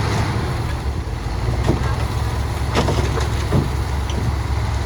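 Heavy diesel earthmoving machinery running with a steady low rumble, broken by a few short knocks or clanks.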